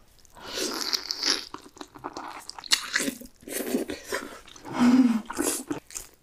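A person biting into and chewing cooked lobster meat, wet mouth sounds in uneven bursts with short pauses between them.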